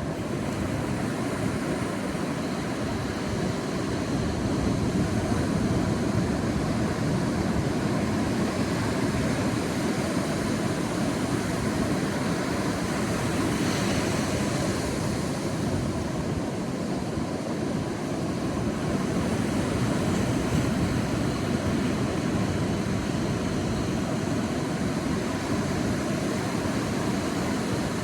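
Sea waves washing on a beach in a steady low rush of surf, with one wave swelling and hissing more brightly about halfway through.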